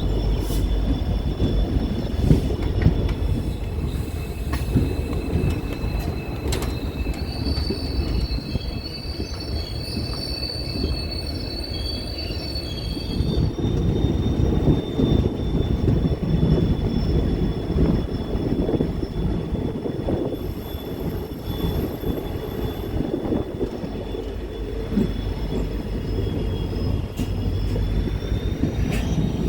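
Passenger train running along the track: a steady rumble of the coaches under high-pitched wheel squeal. The squeal is strongest from about seven to thirteen seconds in, with a few sharp clacks from the rails.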